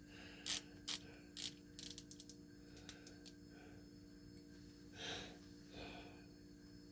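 Faint plastic clicks from an insulin pen being readied for an injection: a few separate clicks, then a quick run of ratcheting clicks about two seconds in, followed by two soft rustles.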